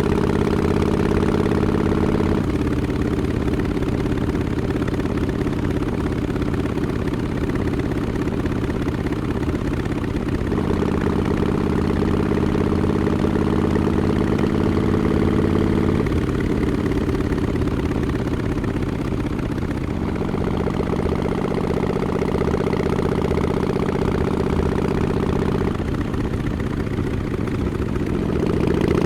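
2017 Harley-Davidson XL1200X Forty-Eight's 1200 cc V-twin running through Vance & Hines Short Shots exhausts with quiet baffles. It holds a steady note that steps up or down in pitch several times.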